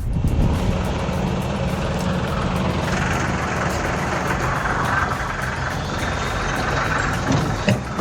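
Heavy tracked vehicle's engine running steadily under load, with a rougher hissing, grinding noise joining about three seconds in and a couple of sharp knocks near the end.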